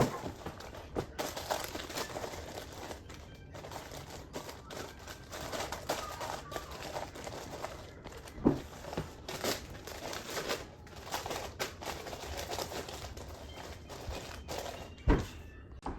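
Plastic wrappers and bags crinkling and rustling as food is packed, with scattered small knocks and a louder knock near the end.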